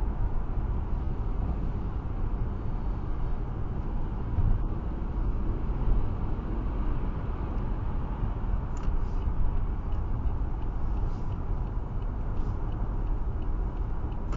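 Steady road noise inside a car at motorway speed in pouring rain: a low rumble from the tyres and engine, with the hiss of tyres on the wet road.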